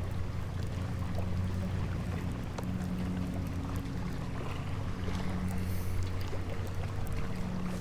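Minn Kota electric trolling motor on a fishing kayak humming steadily, with wind and choppy water around the hull.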